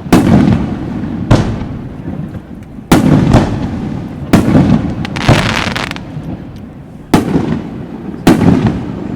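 Aerial firework shells bursting one after another, about seven sharp bangs in nine seconds, each fading out in a long rumble.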